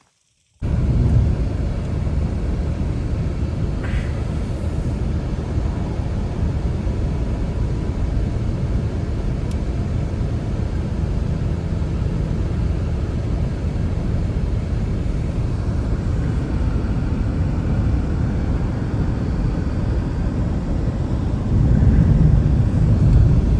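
Strong blizzard wind blowing steadily with a heavy low rumble on the microphone. It starts abruptly about half a second in and swells louder near the end.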